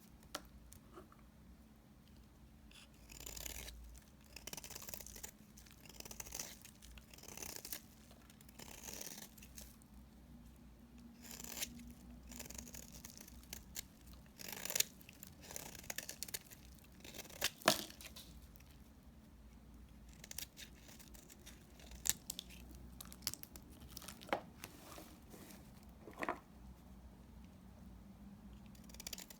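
Knife cutting through small remnants of bar soap: a run of short, crisp cutting strokes about a second apart, with a few sharp clicks, the loudest about two-thirds of the way through.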